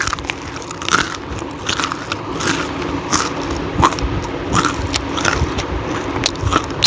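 Chewing of crisp deep-fried potato-and-onion pakoras, a loud dry crunch with each bite about every two-thirds of a second. The sound shows how crisp the fritters are.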